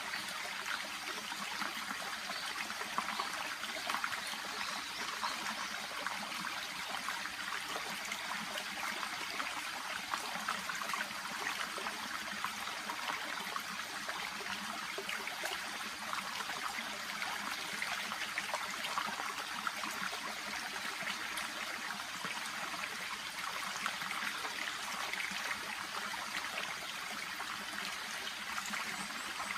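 Shallow babbling brook flowing steadily: a constant, even trickling of water with many small splashes.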